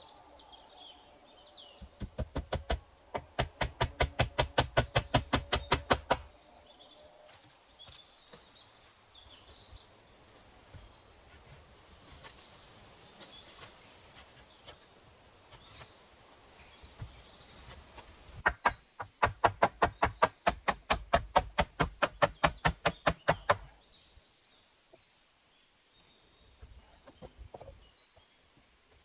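Two runs of rapid, even knocks, about five a second, each lasting four to five seconds, typical of hand-tool work. Faint bird chirps come in between.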